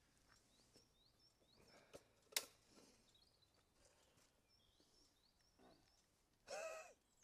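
Near silence: faint outdoor room tone with scattered high bird chirps, one sharp click a little over two seconds in, and a brief louder call near the end.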